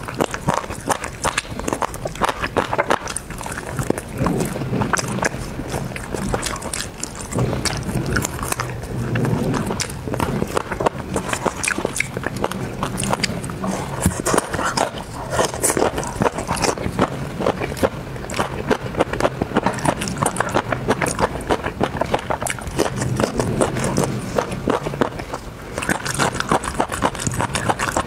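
A person biting and chewing grilled skewer food close to a clip-on microphone: a dense, irregular run of small wet mouth clicks and smacks.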